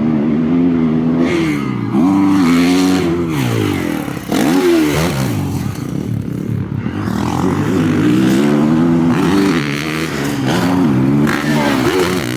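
Motocross bike engine revving hard on a track, its pitch climbing through the gears and dropping as the throttle shuts, again and again every second or two.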